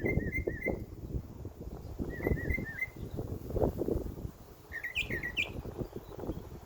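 Songbirds chirping in short warbled phrases: two quick runs of repeated notes in the first three seconds, then a burst of rising notes about five seconds in. Under them runs an irregular low rumble with thumps, louder than the birds.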